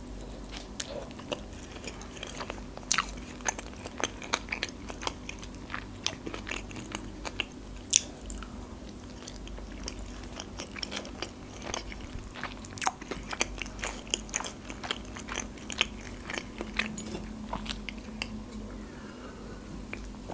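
Close-miked chewing of a Philadelphia sushi roll (salmon and cream cheese): many irregular wet mouth clicks and smacks, over a faint steady hum.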